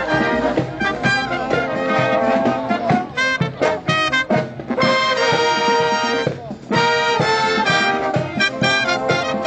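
College band playing live, a brass-led up-tempo tune with short punchy ensemble hits, then a held chord about five seconds in.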